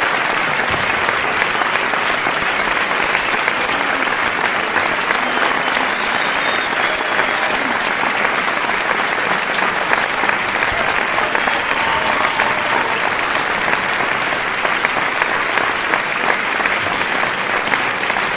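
Audience applause: many hands clapping at once in a dense, steady wash that holds at an even level without a break.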